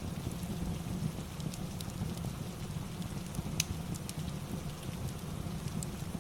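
Steady rain with a fireplace crackling over it: scattered sharp pops, one louder than the rest about three and a half seconds in.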